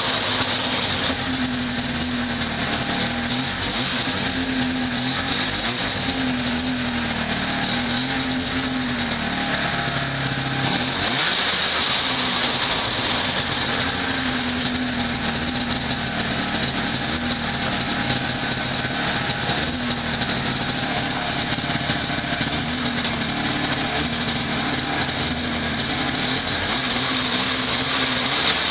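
1980 Ski-Doo Blizzard 5500's Rotax 503 two-stroke twin engine running, its speed rising and falling every couple of seconds. It has just been started to check it over after sitting; the owner reckons it doesn't sound too bad but could use another carb cleaning.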